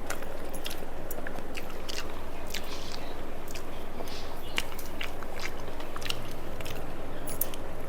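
A person chewing food close to the microphone, with many short, sharp crunches and clicks of mouth noise spread throughout.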